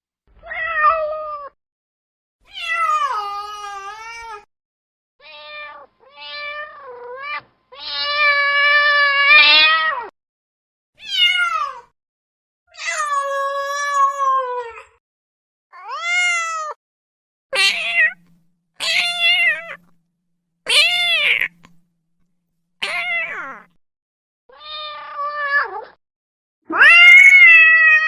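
A domestic cat meowing over and over, about fourteen separate calls with silent gaps between them. Most calls are short, and a few are drawn out for about two seconds, one of them near the end.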